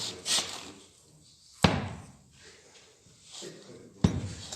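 Two sharp knocks about two and a half seconds apart, the first the louder, each with a short ringing decay, after a little rustling handling noise.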